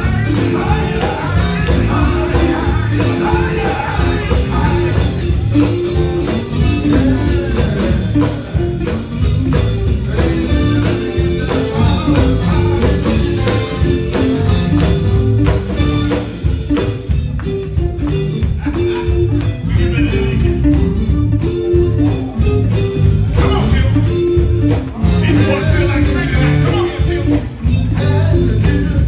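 Live gospel band playing at full volume, with a steady bass and drum beat, electric guitar and tambourine, and voices singing at times.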